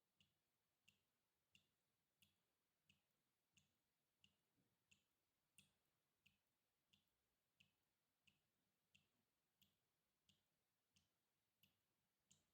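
Faint water drips falling in a steady, even rhythm, about three drops every two seconds.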